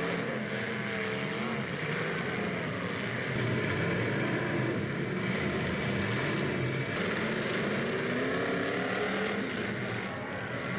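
Engines of several demolition derby cars running and revving together, their pitches rising and falling over one another.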